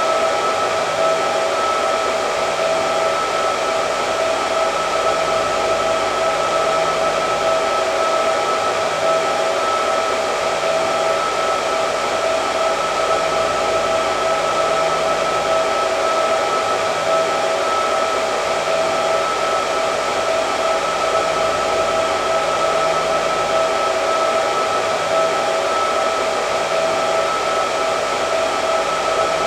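Hair dryer running continuously at a steady speed: an even rush of air with a constant motor whine.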